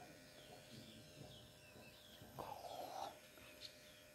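Faint small-bird chirps, short high notes repeated every fraction of a second, over quiet outdoor background. A brief scratchy rustle comes about two and a half seconds in.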